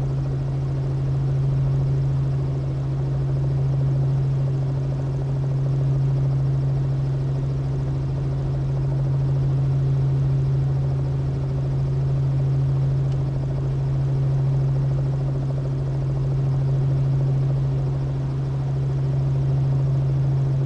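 Robinson R44 helicopter's piston engine and rotor running steadily while it holds on the ground before takeoff: a steady low hum that swells and fades gently every couple of seconds.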